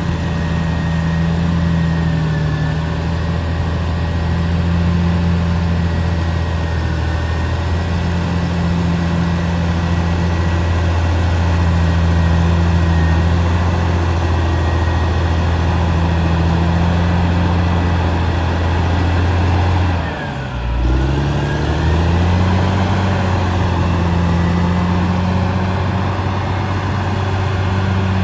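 Caterpillar D6R XL bulldozer's diesel engine running steadily under working load, with a faint high whine over the low engine note. About two-thirds of the way through, the engine note drops sharply and comes back up within about a second.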